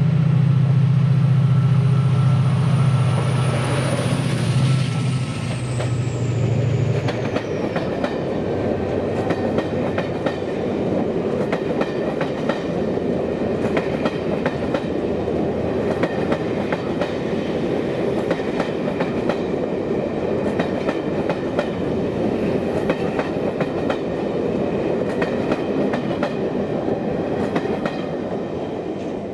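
A Class 68 diesel locomotive passes with its engine loud for the first seven seconds or so, and a high whistle falls in pitch as it goes by. Then a rake of coaches runs past with a steady rush of wheels and rapid clicks over the rail joints, fading near the end.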